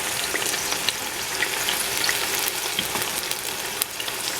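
Food sizzling in hot oil as it is stir-fried, a steady crackle with scattered sharp clicks.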